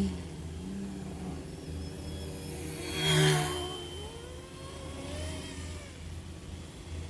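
Eachine E188 brushless RC helicopter's motors and rotors whining in flight, the pitch sliding up and down with the throttle. It swells loudest about three seconds in, then fades back.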